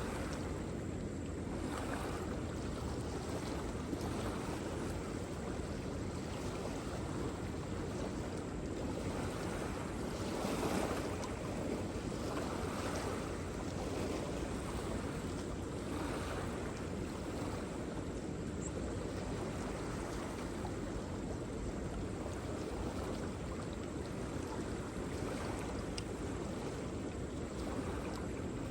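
Waterfall: a steady rush of falling water, deep and even, swelling gently every few seconds.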